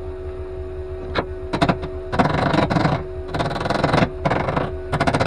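Flux-core wire welder laying short tack welds on car body sheet metal: three crackling bursts of arc, the first two under a second each and the last shorter, with a few sharp clicks before and after, over a steady electrical hum.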